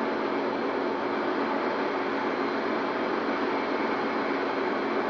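TOS Kurim FA5B universal milling machine running, a steady unbroken machine noise with a faint constant whine.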